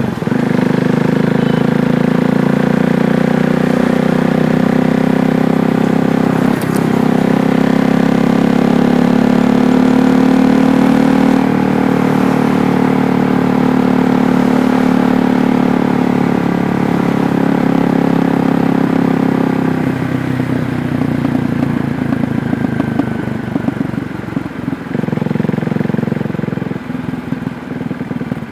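KTM Duke 390's single-cylinder engine running steadily under throttle for about twenty seconds, then dropping to a lower, choppier note as the throttle comes off, with a brief pick-up near the end.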